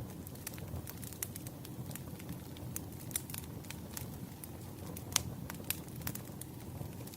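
Wood fire crackling: many irregular sharp pops and snaps, a few louder ones, over a steady low rumble.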